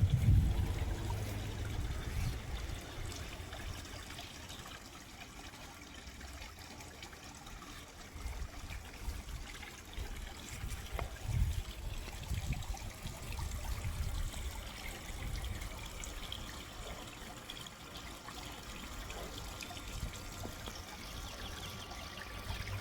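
Water trickling and splashing steadily in a garden pond, with occasional low thumps underneath.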